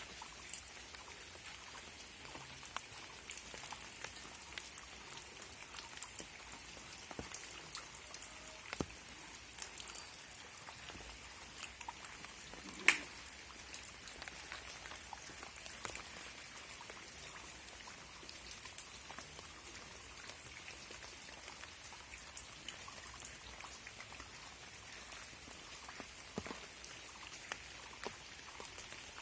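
Rain falling in a garden: a steady hiss of rain with many separate drops ticking on surfaces, and one louder drop hit about 13 seconds in.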